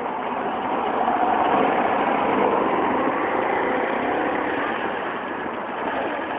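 Vintage car engines running at low speed as the cars move off slowly, first a small old estate car pulling away and then an MGB sports car's four-cylinder engine rolling close by. The engine sound swells about a second or two in and eases off again.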